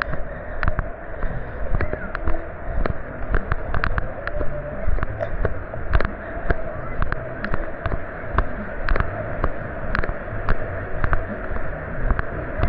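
Footsteps at a steady walking pace, about two a second, over a steady background wash of noise.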